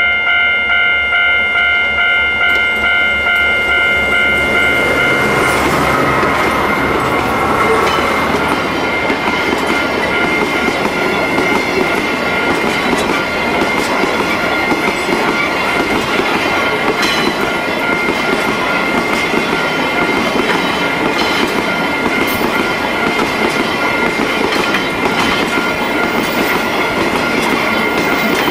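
A level-crossing warning bell rings about twice a second. From about five seconds in, a freight train of DD13 diesel locomotives and sulfuric-acid tank cars passes close by: the locomotives' diesel engines go by, then the loud rumble and clatter of tank-car wheels over rail joints. The crossing bell keeps ringing underneath.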